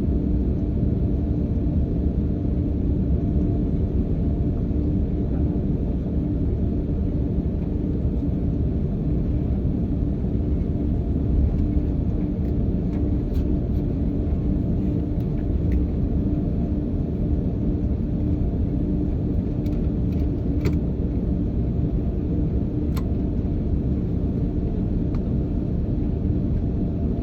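Steady rumble and drone of an airliner heard from inside the cabin as the plane taxis before takeoff, with a constant hum tone running through it. A couple of faint clicks come about three-quarters of the way through.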